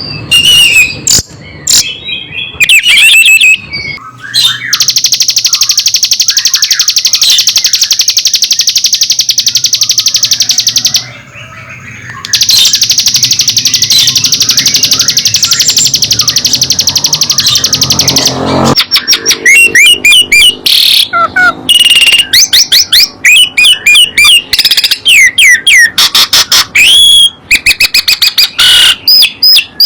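Songbird song: short chirps, then two long, very fast high trills, the second ending with a break about 18 seconds in, followed by quick runs of varied whistled notes.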